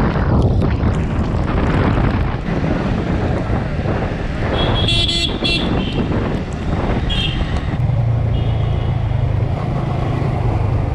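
Motorcycle riding along a road with wind rushing over the microphone, and a vehicle horn tooting briefly about five seconds in and again more faintly near seven seconds.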